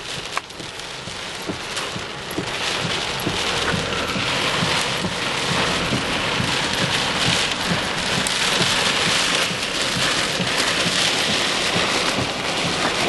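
Steady rain, with many drops striking close by in a dense, unbroken spatter.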